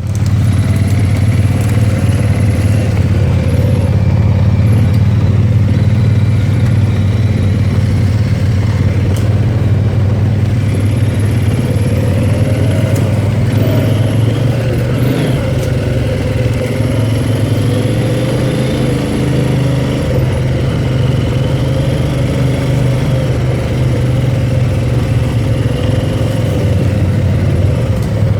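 ATV engine running steadily through the whole stretch while the quad is ridden, its pitch wavering a little with the throttle.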